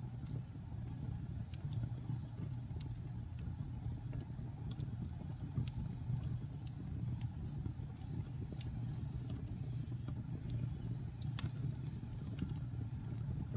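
Wood fire burning in a fireplace: a steady low rumble under irregular sharp crackles and pops, with one louder pop about eleven seconds in.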